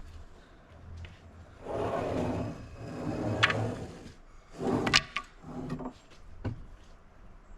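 Wooden walnut slabs and stickers being handled while stacked: several short wood-on-wood scrapes and slides, with a few sharp knocks as boards are set down.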